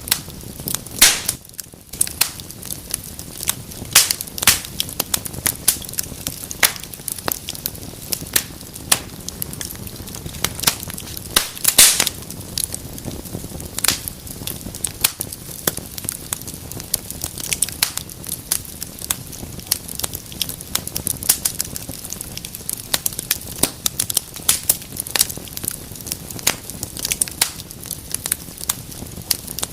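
Wood fire burning in a fireplace, crackling with many irregular sharp pops and snaps over a steady low rush of flame, now and then a louder pop.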